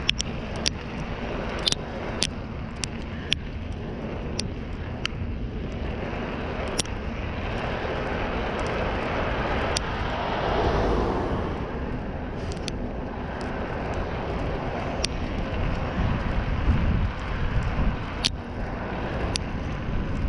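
Steady rush of road and wind noise heard from a bicycle on a roadside hard shoulder, with a motor vehicle passing that swells up and fades about ten seconds in. Scattered sharp clicks run through it.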